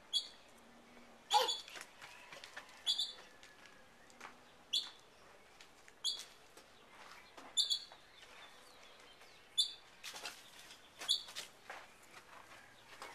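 A bird chirping: short, sharp single chirps repeated about every one and a half to two seconds.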